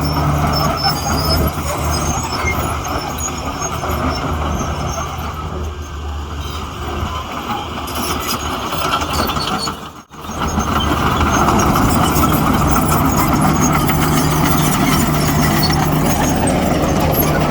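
Heavy diesel earthmoving machinery running steadily under load. The sound cuts out for a split second about ten seconds in and comes back louder.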